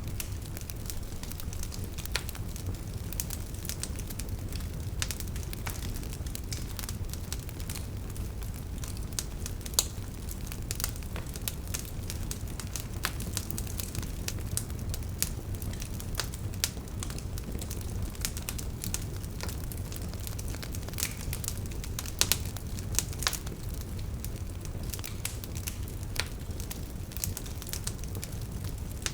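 Wood fire crackling: frequent irregular pops and snaps over a steady low rumble of burning.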